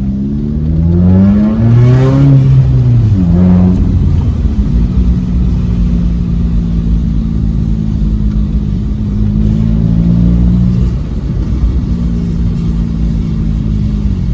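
Vauxhall Corsa B 1.2 petrol engine and exhaust: one rev rising about a second in and falling away by about three seconds, then the engine running at a steady speed, with a brief dip near the end.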